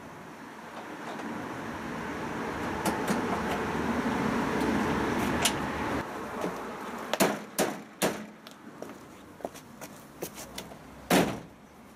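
Hands working on a washing machine's casing to undo a fitting: a scraping, rustling noise that swells and fades over the first half, then a scatter of sharp clicks and knocks, the loudest about eleven seconds in.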